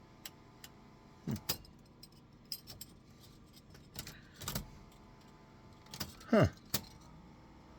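Car keys jangling and clicking at the ignition with the engine off: a scatter of sharp clicks and rattles over a low background.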